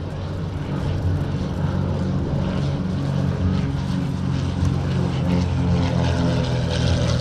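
Twin-engine propeller aircraft flying by, its engines and propellers giving a steady drone that grows a little louder after about a second.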